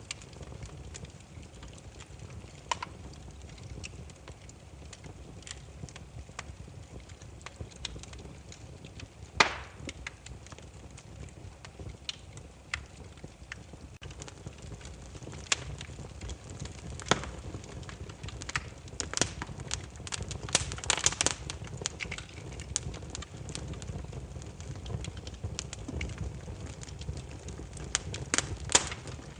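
Burning firewood crackling: irregular sharp snaps and pops over a low steady rumble, with one loud pop about nine seconds in and a flurry of crackles around twenty seconds in.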